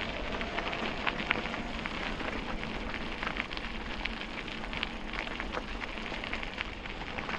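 Bicycle tyres rolling over a gravel canal towpath: a steady rushing noise full of many small ticks and crunches from the stones.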